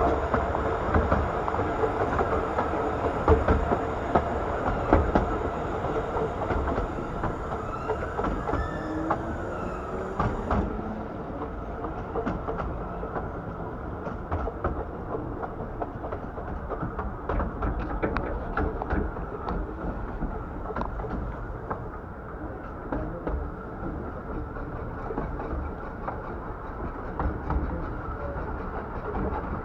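Bure Valley Railway's 15-inch gauge miniature train running along the line: a steady rumble from the carriage, with the wheels clicking over rail joints.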